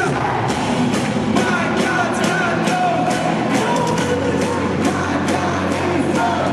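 Rock-style worship band playing loudly, with singing over drums and bass.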